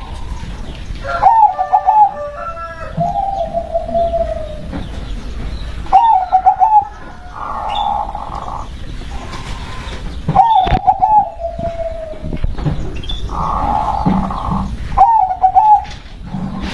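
Zebra dove (perkutut) cooing: four short warbling phrases spaced about four to five seconds apart, two of them trailing into a long, slowly falling trill.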